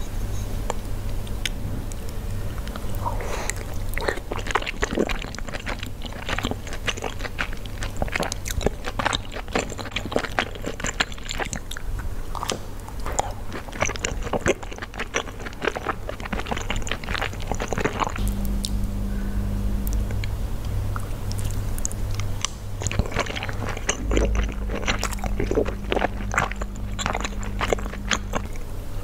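Close-miked chewing of soft, juicy soup dumplings (xiaolongbao): many small wet clicks and smacks, easing off for a few seconds about two-thirds of the way through, over a low steady hum.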